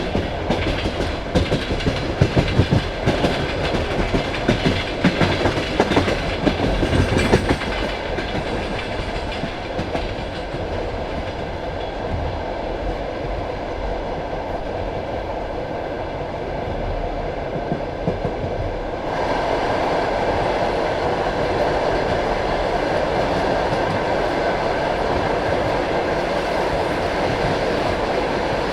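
Passenger train wheels clacking over rail joints and points, a quick run of sharp clicks for the first several seconds, settling into a steady rolling rumble of the carriage. About 19 seconds in the running noise jumps suddenly louder and stays up.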